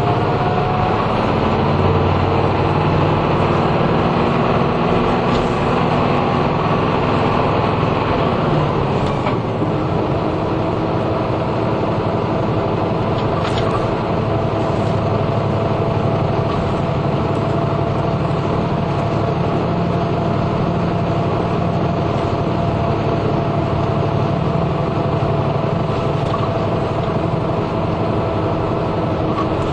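Route bus heard from inside the cabin, its engine and road noise running steadily at speed. The engine note shifts about nine or ten seconds in.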